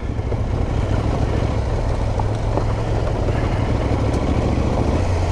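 Adventure motorcycle engine running steadily with a low drone, heard from the rider's own bike on a rough green lane.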